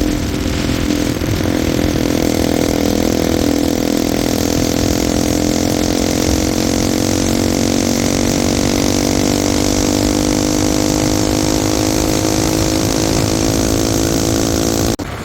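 Bajaj Pulsar NS200 single-cylinder engine with an aftermarket exhaust, running under load while riding, its pitch rising slowly and steadily as the bike gathers speed. Near the end the sound cuts off suddenly.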